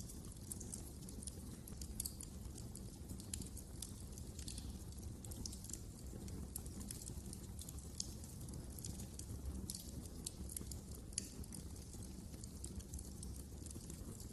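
Wood fire crackling in a fireplace: irregular sharp snaps and pops over a steady low rumble of the burning fire.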